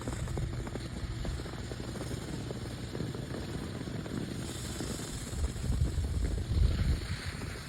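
Wind rumbling on the microphone while skiing, with skis sliding over snow underneath; it swells louder about five to seven seconds in.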